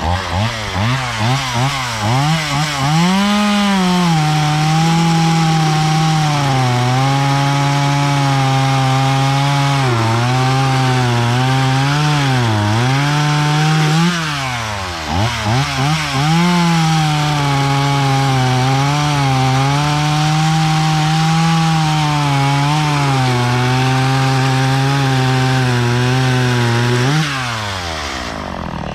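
Stihl MS170 two-stroke chainsaw fitted with a Hipa 3/8 semi-chisel chain, blipped a few times and then held at high revs while it cuts through wood. About halfway through it eases off with a few quick revs, then cuts again at a steady pitch. Near the end the throttle is released and the engine drops back toward idle.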